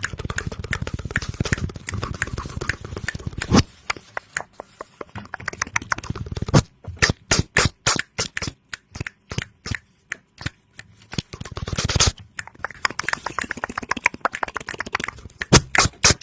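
Close-miked ASMR trigger sounds: a fast, dense run of small clicks and pops, slowing about halfway into separate single clicks with short gaps, then speeding up again into a rapid run near the end.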